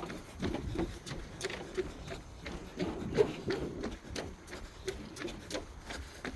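Footsteps of a person walking on a path at a steady pace, about two steps a second.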